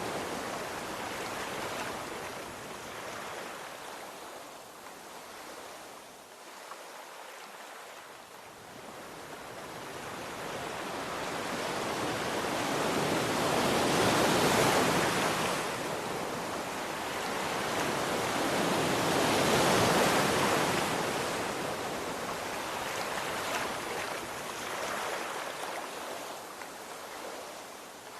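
Sea waves breaking and washing in, a steady rush that swells and fades slowly, with two larger waves near the middle.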